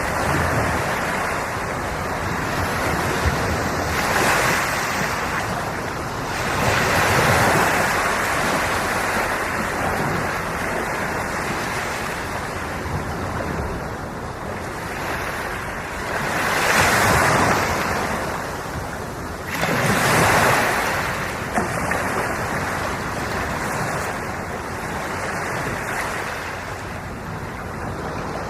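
Ocean waves breaking and washing on a shore, with swells of surf at irregular intervals and some wind on the microphone.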